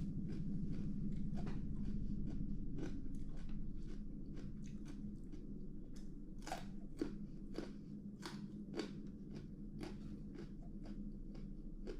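Close-up eating sounds: irregular crisp crunches and wet chewing of a mouthful of barking-deer nam tok with raw side vegetables, several sharper bites around the middle.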